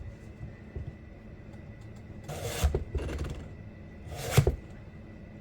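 Two file strokes across a chainsaw chain tooth, a couple of seconds apart, from a bar-mounted two-in-one file sharpener that sharpens the cutter and takes down the raker in the same stroke.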